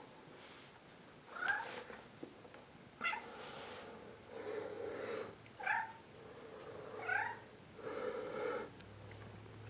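A domestic cat meowing in short, sliding calls, about four times, with softer sounds in between.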